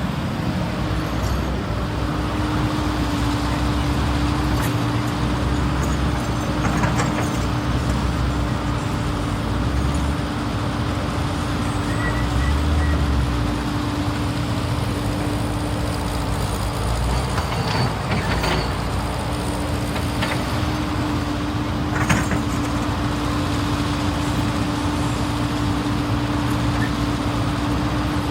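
CAT 320 GC hydraulic excavator running, its deep engine rumble rising and falling with load under a steady whine. A few sharp knocks cut through, the strongest about 22 seconds in.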